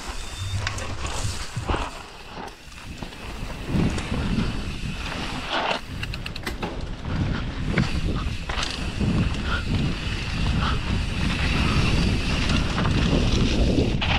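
Wind buffeting the microphone of a camera riding along on a downhill mountain bike, with short rattles and knocks from the bike over rough trail, a cluster of them about six seconds in.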